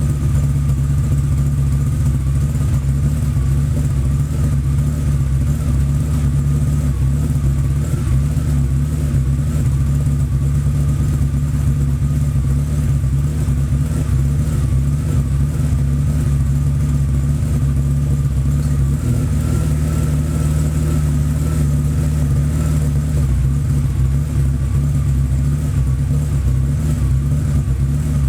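BMW 850 (E31) V12 engine idling steadily at an even pitch during its warm-up after a cold start.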